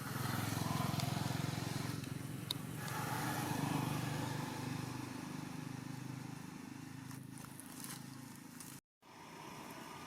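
A motor engine running close by, its pitch rising and falling a little; it cuts off abruptly near the end.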